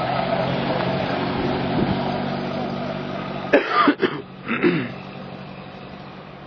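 A vintage car's engine running steadily, then fading away over the last couple of seconds. Two short, sharp sounds a little past halfway.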